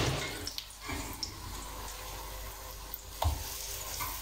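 Potato pancakes frying in hot oil in a pan, a steady sizzling hiss, with a sharp knock at the very start and another about three seconds in as kitchen utensils touch the pan.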